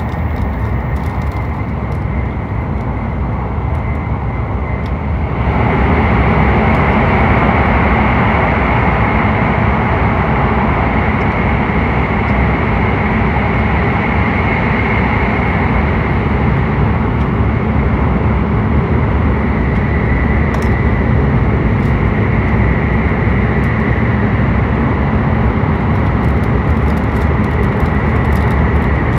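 Running noise of a Hokuriku Shinkansen train at speed, heard inside the passenger cabin. About five seconds in it turns suddenly louder as the train enters a tunnel, then holds steady.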